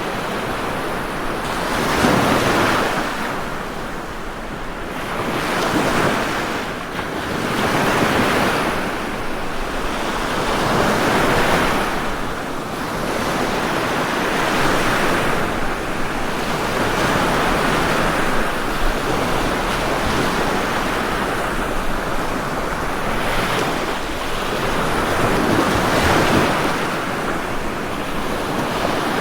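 Ocean waves breaking and washing in, the surf swelling and easing every two to four seconds.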